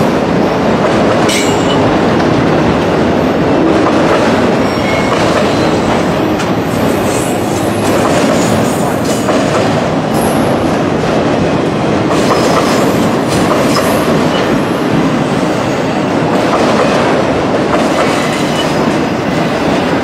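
Freight cars of a long mixed-freight manifest train rolling past close by: a loud, steady rumble of steel wheels on rail with clickety-clack over the rail joints and faint high wheel squeals now and then.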